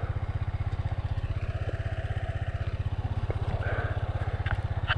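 Dirt bike engine idling steadily with an even, fast low pulse, a few light clicks near the end.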